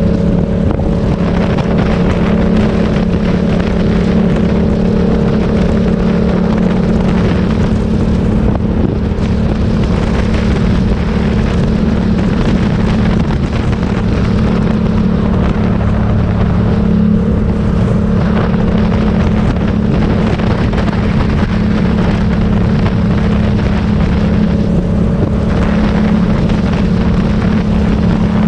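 Motorcycle engine running at a steady, unchanging pitch while riding, with wind noise on the microphone.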